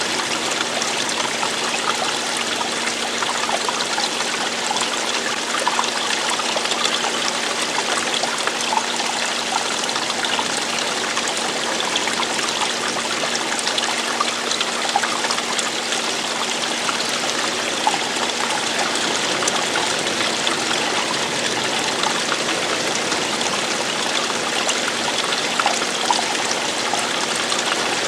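Running water: a stream flowing and splashing over rocks, a steady rush with small flickering splashes.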